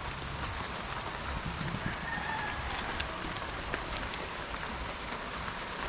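Steady rain falling on and around a roofed shelter, with a faint short call about two seconds in.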